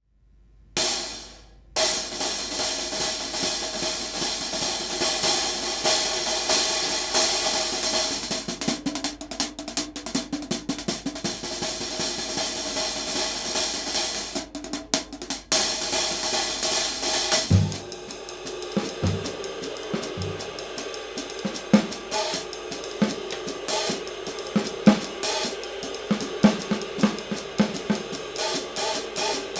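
A pair of hand-made 16-inch paper-thin B20 bronze hi-hat cymbals, played alone at first with a dense, continuous wash. From about 17 seconds in, they keep time in a drum-kit groove, with kick drum and snare.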